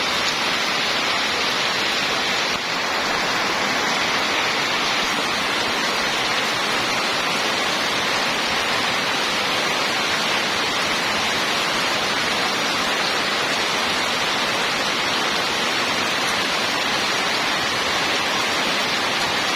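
Rain falling, a steady dense hiss with no single drops, thunder or other events standing out.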